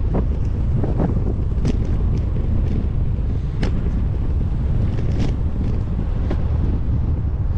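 Wind buffeting a bike-mounted action-camera microphone while riding, a steady low rumble, with scattered sharp clicks and rattles.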